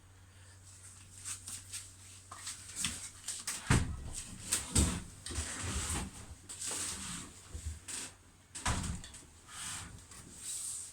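Old washing machine being pulled out from its space: scraping and knocking as it is shifted, with two heavy thuds about four and nine seconds in.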